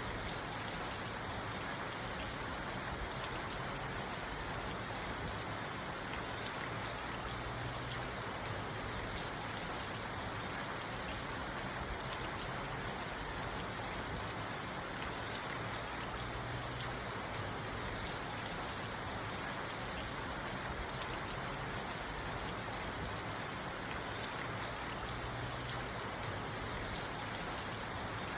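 Steady rain falling on a parked car's roof and windows, heard from inside the car as an even patter with no thunder.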